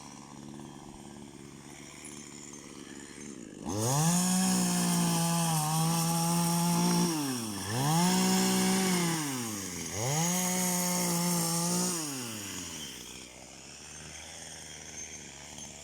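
Two-stroke chainsaw revved up three times. Each time its pitch rises, holds at full speed for a second or more, then falls back to idle; the first run is the longest.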